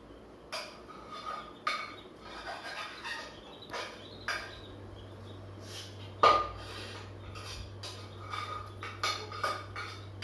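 Irregular clinks and knocks of hard objects, like dishes or metal being handled, each with a short ring; the loudest knock comes about six seconds in. A steady low hum starts about halfway through.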